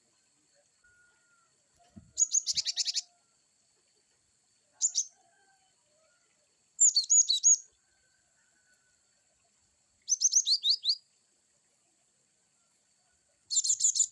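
Cinereous tit (gelatik batu) singing in short, fast bursts of high, down-slurred chirping notes. There are about five phrases, each under a second long, separated by pauses.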